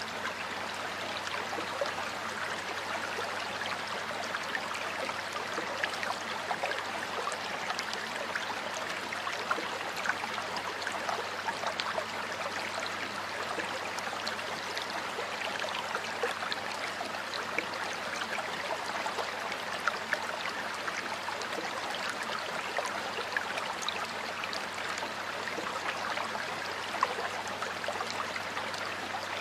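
Water flowing over rocks in a stream, a steady rush with a constant patter of small splashes and now and then a slightly louder splash.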